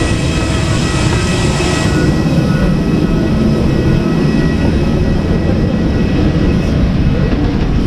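Airbus A320's IAE V2500 turbofan engines running at low power, heard inside the cabin: a steady rumble with faint steady fan tones above it. A hiss in the upper range drops away about two seconds in.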